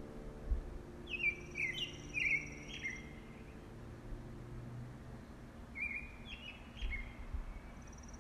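A bird singing short chirping phrases a few seconds apart, with a thin, steady high note held over the first phrase. A held music chord fades out over the first few seconds.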